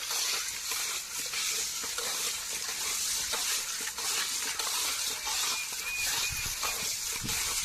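Pieces of parrot fish being scrubbed by hand with coarse rock salt: a steady gritty rasping as the salt scours the slime off the skin.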